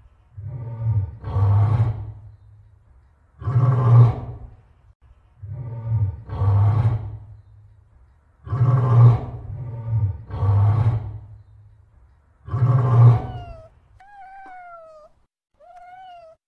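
A run of loud, rough growling roars, about nine of them singly and in pairs, each with a deep low rumble under it, used as the cats' voices. Near the end they give way to two short, quieter cat meows that fall in pitch.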